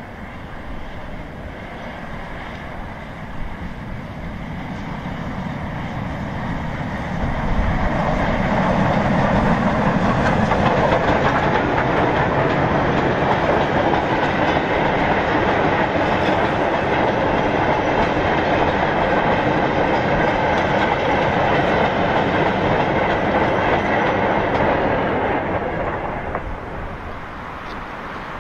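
Goods train of box vans approaching and passing, its wagons rumbling and clattering along the rails. It grows louder over the first several seconds, runs loud and steady while the vans go by, and drops away near the end.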